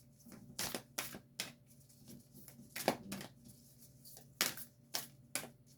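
Deck of oracle cards being shuffled by hand: a string of separate short slaps and flicks of the cards, about ten, unevenly spaced.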